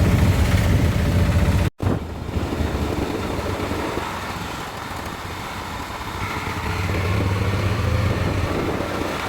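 A motor vehicle running with a low engine rumble, cut off abruptly about two seconds in, then the rumble swelling again later.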